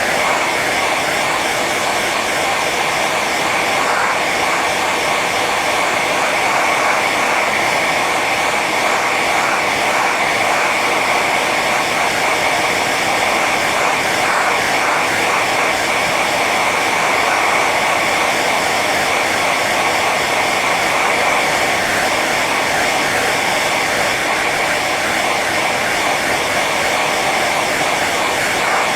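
Hair dryer running steadily on its high setting: an even rush of blown air with a steady whine on top.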